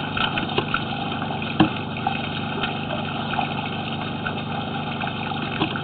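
Steady rushing of water running through a sewer drain line, with a low hum beneath it and a sharp click about one and a half seconds in.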